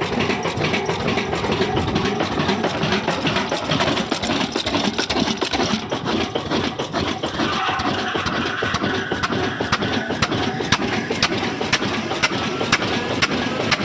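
Old black Hornsby diesel engine running steadily with a dense rhythmic beat. In the second half, sharp ticks at about four a second stand out.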